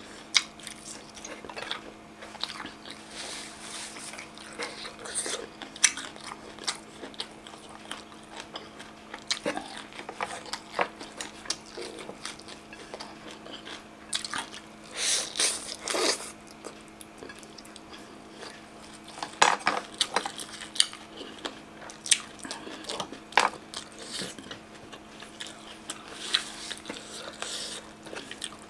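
Close-miked mukbang eating: biting and chewing grilled chicken tail barbecue, with wet mouth clicks and crunches throughout and a louder slurp of Indomie noodles about halfway through.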